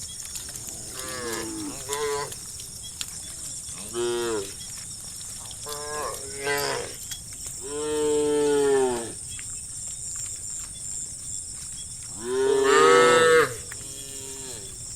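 A series of drawn-out animal calls, each rising and then falling in pitch. The longest comes midway and the loudest near the end, over a steady high-pitched hiss.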